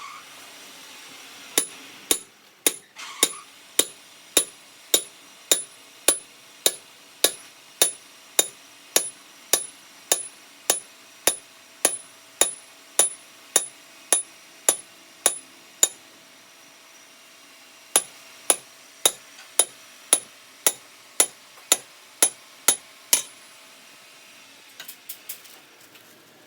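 Hammer striking metal in steady, even taps about two a second, each with a short metallic ring. The taps come in two runs with a pause of about two seconds between them.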